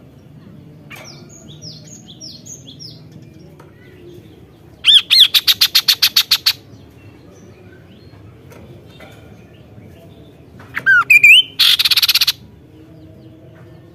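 Kaso-kaso bird calling: a few faint falling notes, then about five seconds in a loud, fast rattling series of about a dozen notes, and near eleven seconds two quick rising notes followed by a harsh, buzzy rattle.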